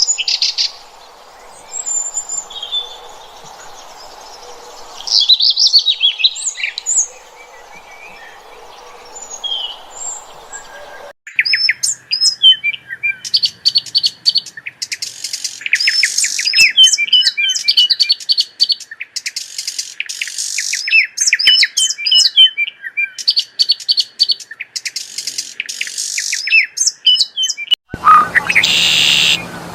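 Songbirds chirping in several spliced recordings: scattered high chirps over a steady background hiss for the first ten seconds or so, then a sudden cut to fast, repeated chirping phrases, and another cut near the end.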